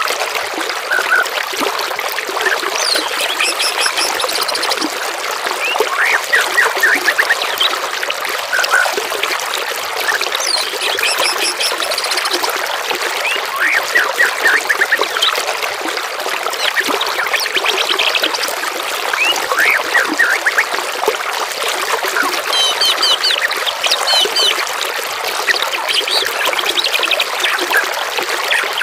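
Several songbirds calling and singing, with short chirps and fast rattling trills, over steady trickling water.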